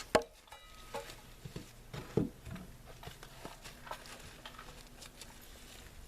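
A few scattered knocks and light handling noises, the sharpest just after the start and another about two seconds in.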